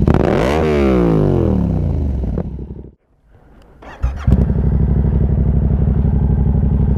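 Yamaha MT-07's parallel-twin engine, breathing through an SC Project Conic 2-into-1 exhaust with the baffle removed, given one quick rev from idle: the pitch rises for about half a second and falls back over the next two. The sound then drops out for about a second before the steady idle comes back.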